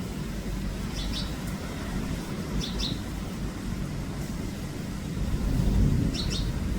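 Strong wind buffeting the microphone with a steady low rumble, while a small bird gives short double chirps three times.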